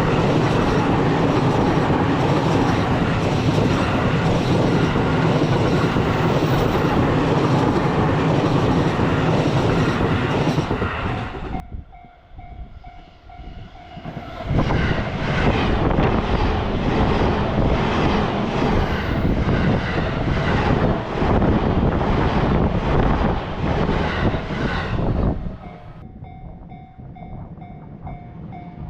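A train rumbles past with wheels clattering over the rail joints. After a short lull about twelve seconds in, a second train passes. A Japanese level-crossing warning bell rings in a steady pulsing beat throughout, heard plainly in the lulls.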